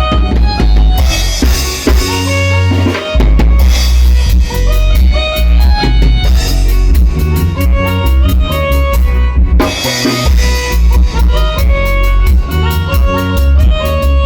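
Band music with a drum kit keeping a steady beat over a strong bass line, and quick melodic notes on top.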